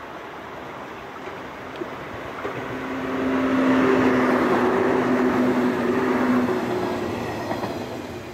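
An electric local passenger train passing on the line. It swells up, holds loud for a few seconds with a steady two-tone hum over the running noise, then fades away.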